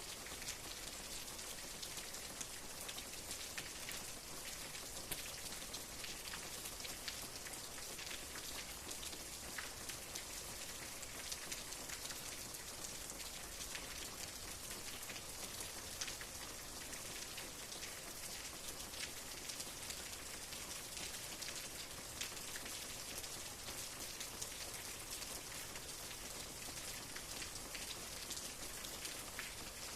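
Steady rain falling, with many individual drops ticking on a surface amid the even hiss.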